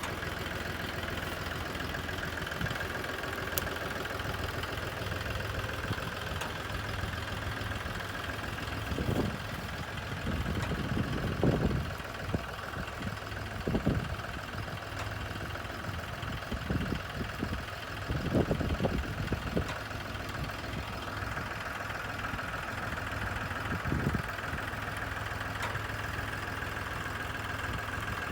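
Tractor engine idling steadily, with a few short knocks and rattles scattered through the middle.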